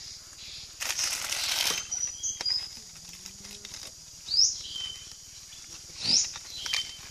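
Bird calls: two loud upward-sweeping chirps, past the middle and near the end, with short high whistles between, over a steady high-pitched hum. A second-long rush of noise comes about a second in.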